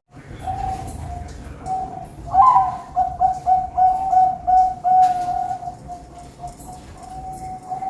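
Zebra dove (perkutut) cooing: a series of soft notes on one steady pitch, with a louder, rhythmic run of notes from about a third of the way in to past the middle.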